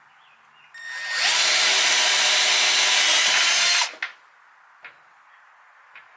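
Milwaukee power drill spinning up and boring a small pilot hole in wood with a twist bit meant for metal. It runs at steady full speed for about three seconds, then stops abruptly, and two light clicks follow.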